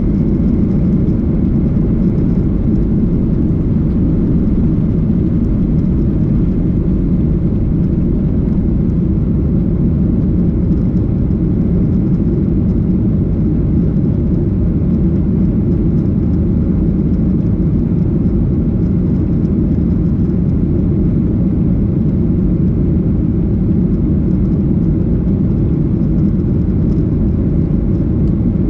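Steady cabin noise of a Boeing 737-800 under power: the CFM56-7B jet engines and rushing air make a loud, even, low rumble.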